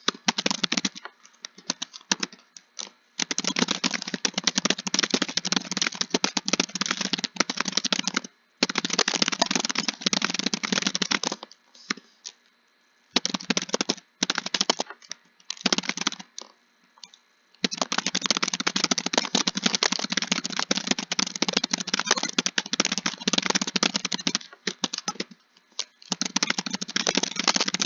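Typing on a computer keyboard: fast, continuous runs of keystrokes broken by short pauses of a second or so every few seconds.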